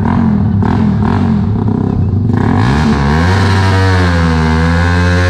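Underbone motorcycle with an aftermarket exhaust being revved hard: a few quick blips, then the revs climb and are held high and steady, with a brief dip near the end.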